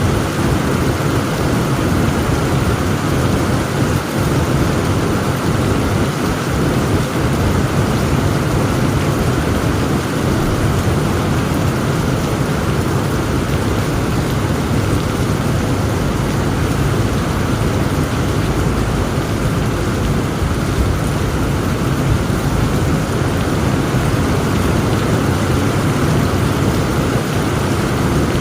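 Heavy rain of a thunderstorm falling steadily, with a deep, steady rumble underneath.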